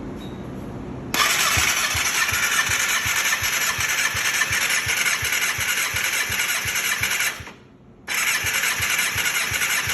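Kawasaki ZX6R engine cranked over on its starter motor for a compression test on cylinder 1: a steady whirr with low pulses about three a second, in two runs with a short pause between. The gauge reads about 190 PSI.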